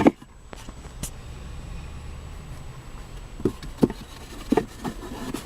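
Several short clicks and knocks from the car's interior fittings being handled, over a low steady hum in the cabin.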